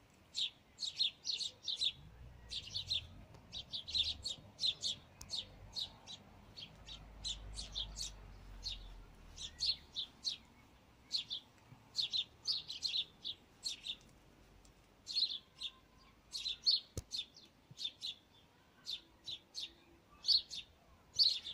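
Sparrows chirping: many short, high cheeps in quick clusters, going on throughout.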